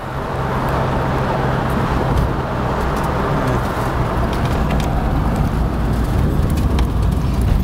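1988 Ford Mustang's 306 V8 running hard in a street race, a steady loud drone mixed with road noise, heard from inside the car. The driver has just missed the shift into third gear.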